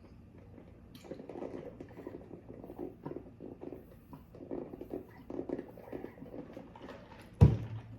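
Soft, irregular close-miked chewing and mouth sounds of someone eating, with one short loud burst near the end.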